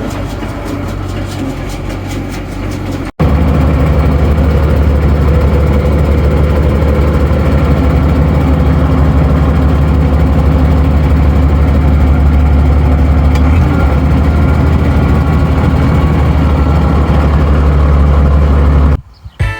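Tractor engine running steadily. About three seconds in, the sound cuts to a much louder, closer engine with a deep, steady drone that holds unchanged until it stops near the end.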